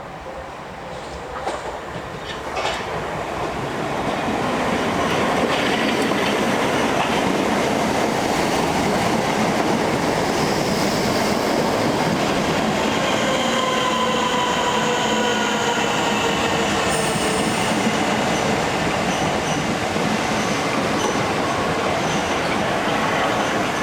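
Southeastern electric multiple-unit train running through the station. It grows louder over the first few seconds and then stays loud, with a faint whine that slowly falls in pitch about halfway through.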